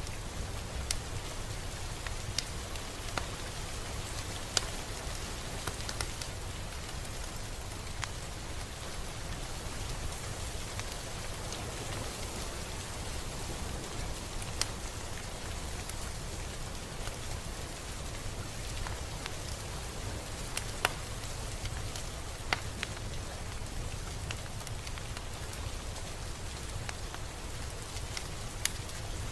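Steady rain falling, a continuous hiss with scattered individual drops ticking sharply on a nearby surface every second or so.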